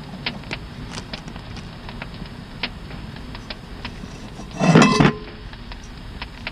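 Campfire crackling with scattered sharp pops, and a little past the middle one loud clatter, like metal on metal, lasting about half a second with a brief ring.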